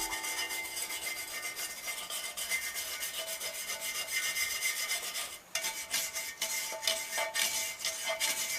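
Rapid back-and-forth abrasive rubbing strokes, as in scrubbing or rasping rust off metal parts by hand, pausing briefly about five seconds in.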